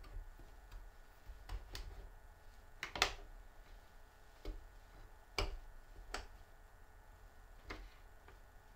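Irregular light clicks and taps, about ten of them spaced unevenly, the sharpest about three seconds in, over a faint steady hum.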